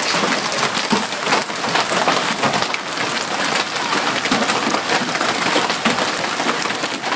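Large hailstones pelting down hard and continuously: a dense, steady clatter of many stones striking hard surfaces.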